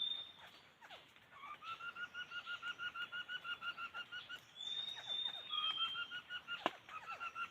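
Laughingthrush calling: fast runs of identical short notes, about seven a second, each run lasting two to three seconds, with a whistled slur between runs. A single sharp click comes about a second before the end.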